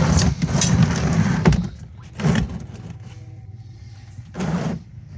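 An oil drain pan dragged out from under a truck, scraping over the ground in a long rough drag and then two shorter pulls.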